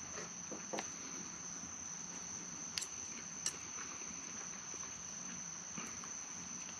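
Night insects trilling steadily in a chorus: one high, unbroken tone. A few short clicks come about a second in and around three and three and a half seconds in.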